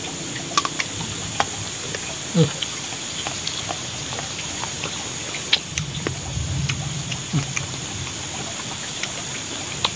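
A person eating grilled fish by hand: chewing, lip smacking and small wet clicks. Two or three short murmurs of enjoyment come from the closed mouth.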